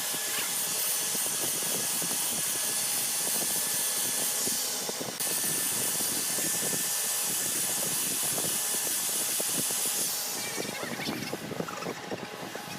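A power tool running steadily with a hissing whir. The sound dips and resumes at once about five seconds in, then fades away near the end.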